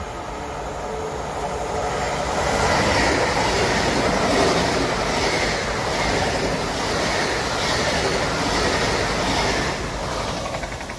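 Great Western Railway Intercity Express Train passing through the station: a steady rush of wheels on rail that builds over the first two seconds, swells about once a second as each coach's bogies go by, and eases off near the end.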